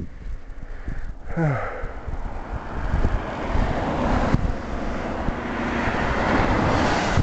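Traffic passing on a roadside highway: tyre and wind noise, with one vehicle's engine dropping in pitch as it goes by about a second in, and a rush that builds toward the end as another vehicle comes up, then drops off suddenly.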